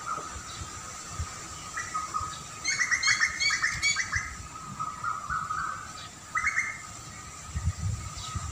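Birds chirping: a quick run of rapid chirps a few seconds in and a shorter burst later, over a steady high background drone, with low rumbles near the end.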